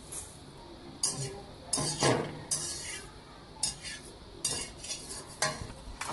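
A metal spoon scraping and clinking against a metal cooking vessel in a series of short, separate strokes as fried snack ingredients are stirred and tossed.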